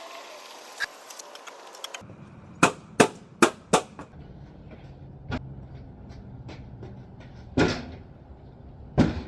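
Buckets being handled and set down: a series of sharp knocks and clacks, four in quick succession about two seconds in, then single ones spaced a couple of seconds apart, over a steady low rumble.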